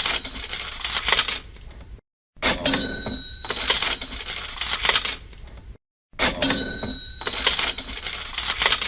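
Cash register sound effect repeating about every four seconds: each repeat is a bell ring followed by a clatter of coins and the cash drawer, with a brief silence between repeats.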